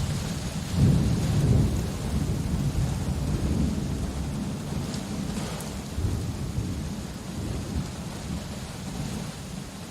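Steady rain with a low rumble of thunder that swells about a second in and slowly dies away.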